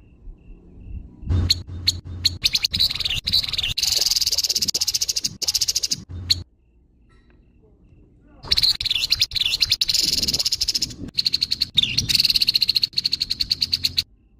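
Grey-headed babbler (tepus kepala abu) giving harsh, rapid rattling calls. There are two long bouts: the first begins about a second in, and the second follows a pause of about two seconds.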